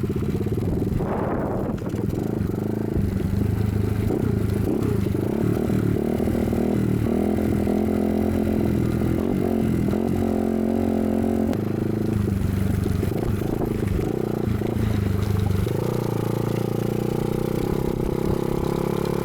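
Dirt bike engine running, its pitch stepping down and up a couple of times, with scraping and clattering over it.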